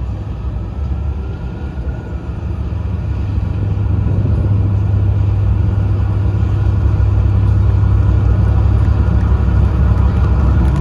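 A steady low rumble that grows slowly louder, with a faint tone rising gently in pitch over it.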